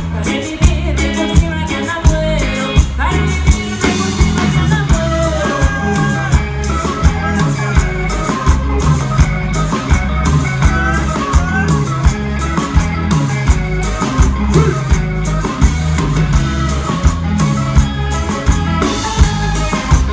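Live band playing a Latin song: drums strike a steady beat over a repeating bass line, with melody instruments above.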